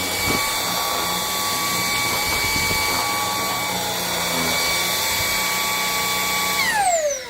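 Maircle S3-MATE cordless stick vacuum running with a steady high motor whine, then switched off near the end, its whine falling in pitch as the motor spins down.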